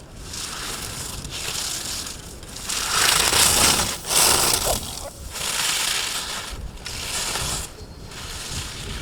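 Skis scraping over hard-packed snow in repeated swells about once a second, as in linked slalom turns, loudest a few seconds in.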